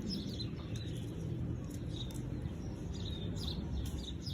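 Small birds chirping: short high calls, each with a quick downward flick, repeated several times over a steady low rumble.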